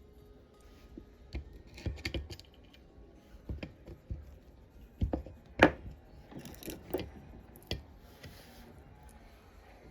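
Irregular clicks and knocks of small metal parts of an old hand drill being handled, the sharpest one about halfway through, with a brief scrape near the end.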